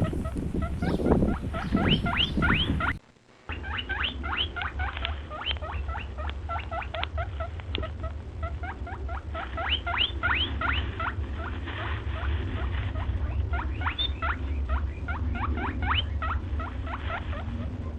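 Many small animals squeaking in quick, high-pitched rising chirps, several a second, over a steady low hum. The sound drops out briefly about three seconds in.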